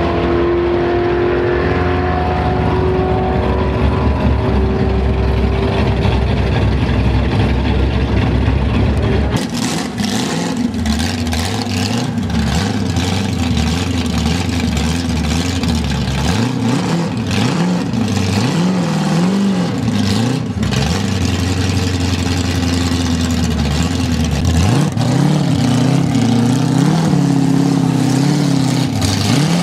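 Ford Falcon's mild 351 Cleveland V8 passing at speed with a falling pitch, then running steadily. About nine seconds in, it idles with a wavering note and light revs as the car is driven onto a tilt-tray truck.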